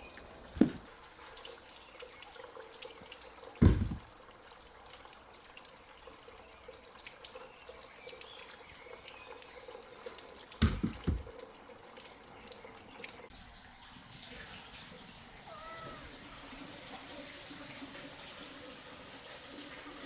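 Three short, heavy, dull thuds about a second, four seconds and eleven seconds in, over a quiet background. A cat meows near the end.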